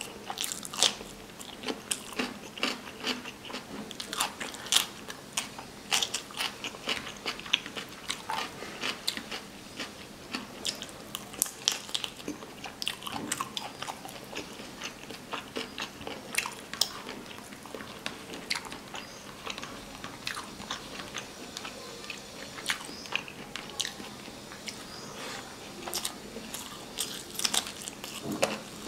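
Close-miked chewing and crunching while eating: bites of raw cucumber slice and mouthfuls of yellow rice pulao with chicken curry. Many sharp crunches, thickest in the first twelve seconds or so, then sparser.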